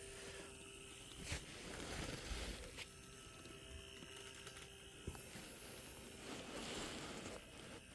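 Model locomotive's DC motor buzzing faintly as it runs. The buzz comes from running a DC locomotive on DCC-powered track. A few light clicks sound along the way.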